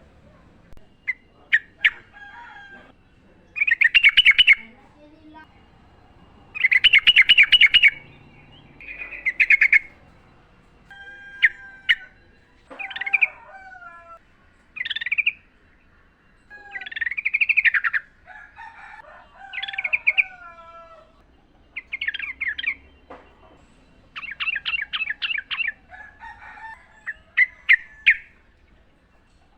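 Yellow-vented bulbuls calling: short bubbly chattering phrases and whistled notes every second or two, with several loud, fast rattling trills.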